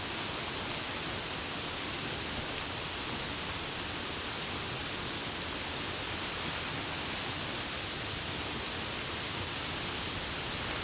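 Steady rain falling, an even hiss that holds level throughout with no thunder.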